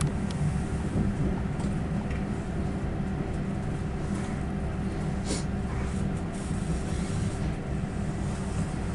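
Passenger train running, heard from inside the carriage: a steady low rumble with a hum, a few light clicks, and a brief hiss about five seconds in.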